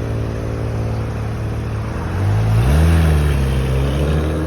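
A car's engine running steadily, then rising in pitch and getting louder about two seconds in as the car accelerates away from the meet, holding at the higher revs near the end.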